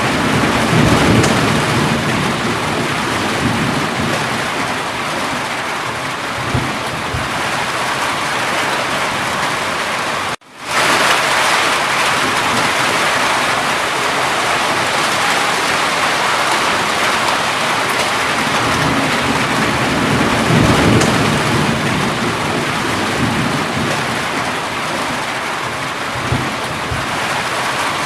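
Steady heavy rain with low rumbles of thunder swelling near the start and again about two-thirds through. The sound cuts out for a split second about ten seconds in, then the rain resumes.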